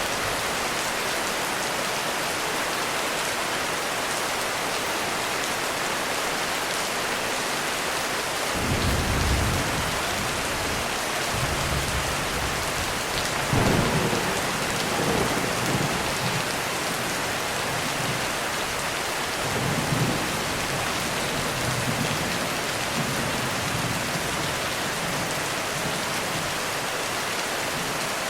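Heavy rain falling steadily, with rolling thunder rumbles. The thunder first comes in about a third of the way through, is loudest around the middle and rumbles again about two-thirds of the way in.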